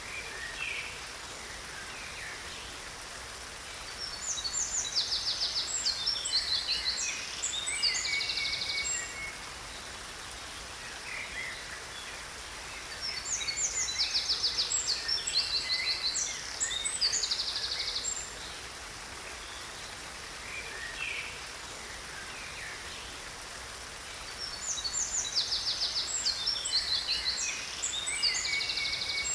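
A songbird singing the same long, complex phrase of rapid trills and sharp notes three times, about ten seconds apart, with a few softer calls in between. Under it runs the steady rush of a waterfall.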